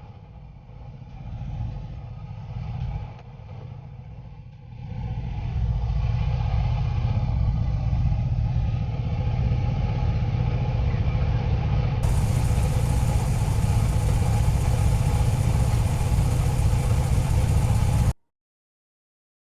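Car engine running, uneven and quieter for the first few seconds, then a loud steady low rumble that cuts off abruptly shortly before the end.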